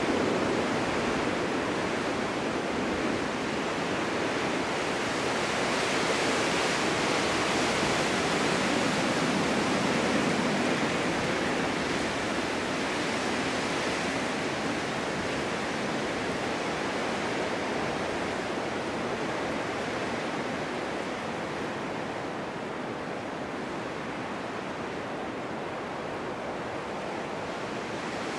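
Strong winter wind blowing steadily in gusts, a continuous rushing noise that swells for a few seconds and then eases slightly toward the end.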